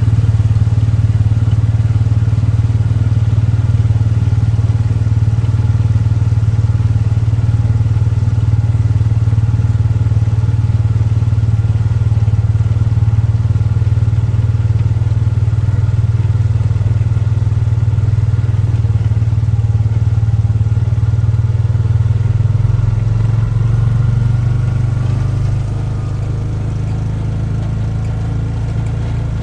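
An engine running steadily with a low hum, dropping in level and settling lower about 25 seconds in.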